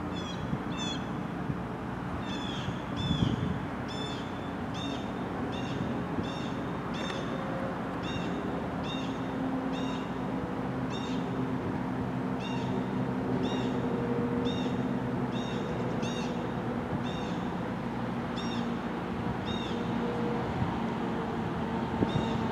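Freight train rumbling with a steady low hum. Over it a short, high, arching chirp repeats about every two-thirds of a second.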